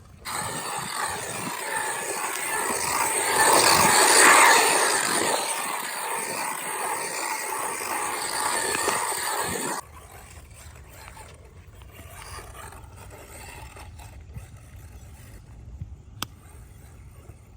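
MEW4 M161 brushless RC truck driving over rough ground, a rushing mix of tyre and motor noise that swells to its loudest about four seconds in and cuts off abruptly near ten seconds. Faint background sound follows.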